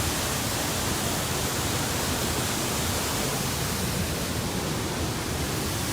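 Waterfall's steady rushing roar of falling water, an even, unbroken noise.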